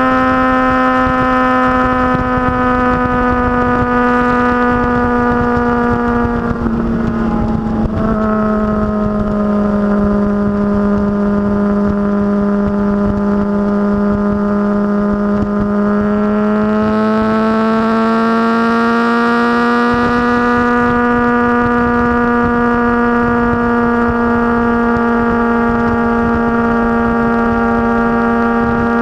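Motorcycle engine running at a steady cruising speed, its pitch dropping briefly about seven seconds in and then climbing slowly later on.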